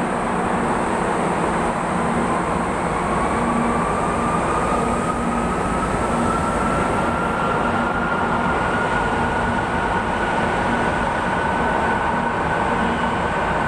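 MRT-3 light rail train pulling out of the station and passing close by, a steady loud running noise of wheels on rail, with a motor whine that rises in pitch from about three seconds in and levels off as the train gathers speed.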